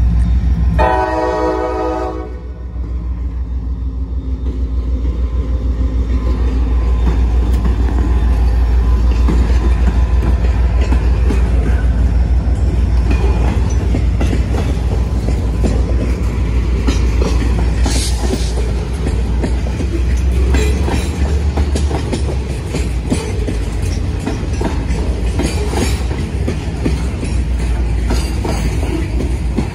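CSX freight train's horn sounds one short blast about a second in. Then the train of boxcars rolls past the crossing: a steady low rumble with rapid clicking of wheels over rail joints.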